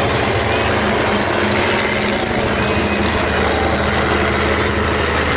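Monster truck engine running steadily at a loud, even level, without a clear rev or impact.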